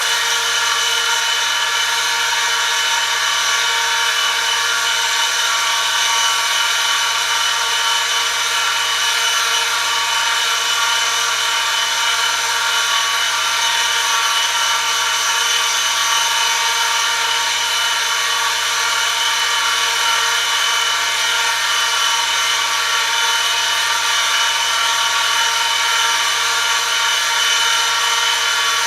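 Motor-driven oil friction tester running, its metal parts rubbing metal-on-metal in hot oil under a 2 kg load. It starts suddenly and holds a steady whine of many fixed tones.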